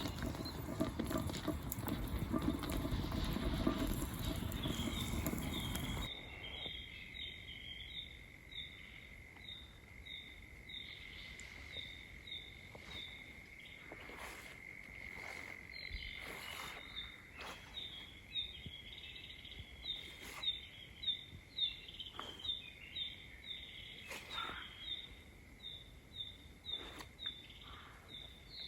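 A dense rushing noise for about six seconds, cut off abruptly. It gives way to quiet outdoor ambience: a steady high insect trill with quick chirps repeating a few times a second and occasional faint clicks.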